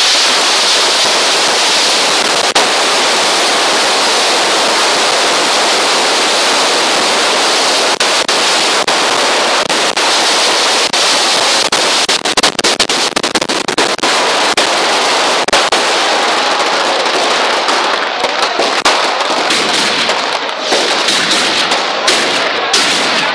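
Firecrackers going off in a dense, continuous crackle, with many sharper separate bangs through the middle. Towards the end the crackle thins out and turns patchy.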